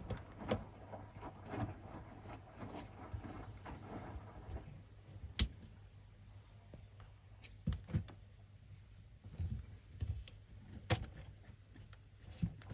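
Hoover washing machine running mid-wash: a low steady hum with scattered knocks and clicks.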